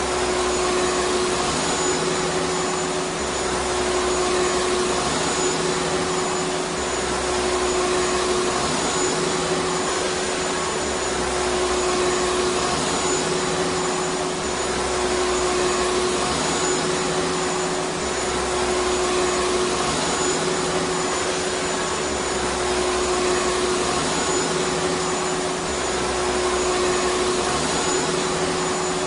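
Vacuum cleaner running steadily, with a constant hum over the rush of its motor. A low rumble underneath comes and goes every few seconds.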